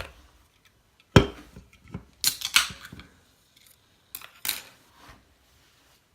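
Handling noise: a few separate sharp clicks and clatters, with a short cluster of them about two to three seconds in.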